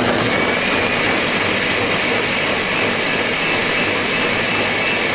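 Countertop blender running at a steady speed, puréeing cooked tomatoes in chicken broth, with a faint high whine over the motor noise.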